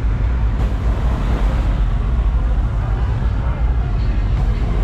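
Steady low rumble with indistinct voices in the background.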